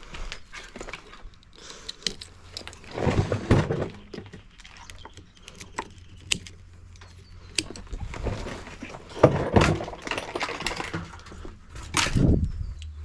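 Parts of a washing machine being handled and pulled apart by hand: irregular clattering, rattling and knocking of metal and plastic, with heavier thuds about three seconds in, around the middle of the second half, and near the end.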